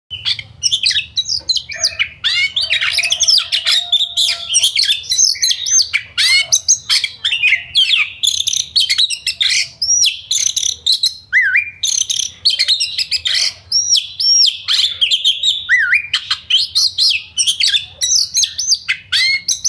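Yellow-vented bulbuls (trucukan) singing in a dense, unbroken stream of quick bubbly whistled phrases that overlap one another, with a faint low hum underneath.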